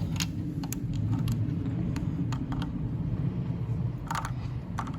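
Scattered light clicks and taps of small metal parts being handled, about eight in all, as a wire eyelet is fastened onto the ignition coil's terminal. A steady low rumble runs underneath.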